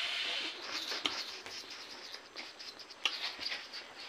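Close-up eating sounds of a person chewing and smacking on rabbit meat: a short hiss at the start, then a run of small clicks, with sharper ones about a second in and again near three seconds.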